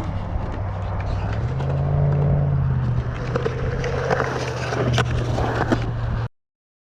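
Skateboard wheels rolling on concrete with a steady low rumble, broken by sharp clacks of the board hitting the ground; the sound cuts off abruptly near the end.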